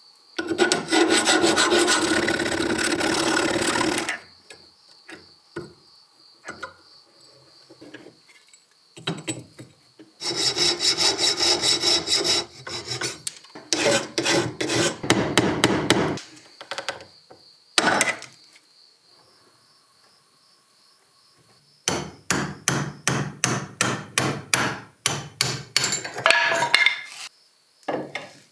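Hand tool scraping and rasping against a workpiece in runs of steady back-and-forth strokes, then a quicker series of short strokes near the end, about three a second.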